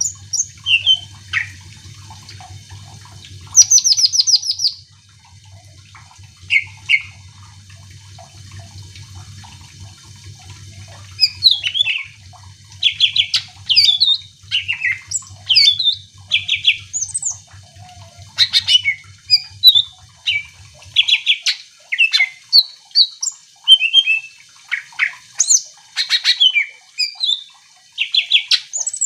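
A cucak ijo (green leafbird) singing a fast, varied song of chirps, whistles and rattling trills. The song is sparse at first and comes thick and fast from about a third of the way in. A low hum runs beneath it and stops about two-thirds through.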